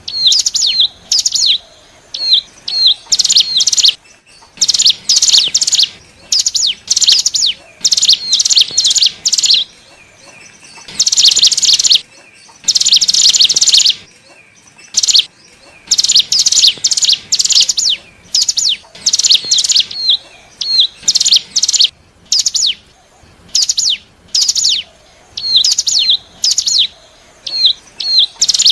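Ciblek gunung (cigun), a mountain prinia, calling loudly. It gives rapid runs of high, sharp chattering notes in repeated bursts with short pauses between them, as in a lure recording used to draw in wild birds of its kind.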